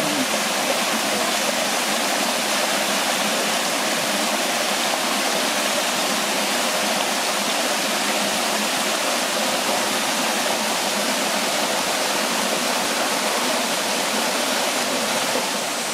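Steady rushing of a mountain stream tumbling over rocks.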